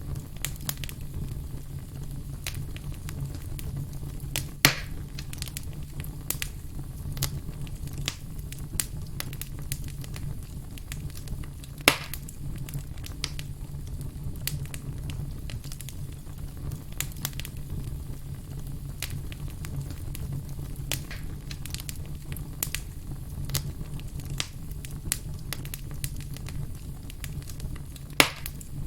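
Wood campfire crackling steadily over a low rumble, with many small snaps and three louder pops.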